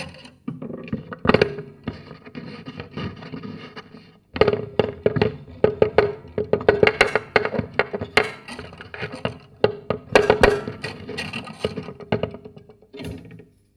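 Homemade noise box, a wooden box fitted with bolts, springs, steel wire and rubber bands and heard through a piezo contact microphone on its lid, being played by hand: fast clusters of clicks, plucked twangs and rattles with a boxy ring under them. The playing breaks off briefly about four seconds in and again just before the end.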